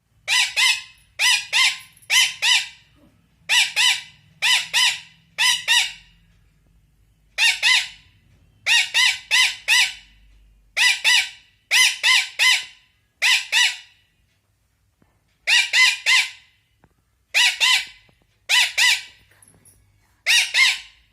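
Indian ringneck parakeet squawking loudly: harsh, repeated calls in clusters of two or three, with short pauses between them, which the owner takes for the bird angrily scolding.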